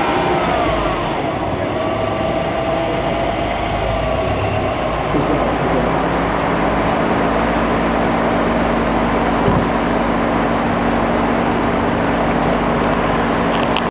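Car engines in an autocross staging line: a car rolls forward slowly with its engine pitch falling, then idles steadily from about six seconds in. There is a single short knock a few seconds later.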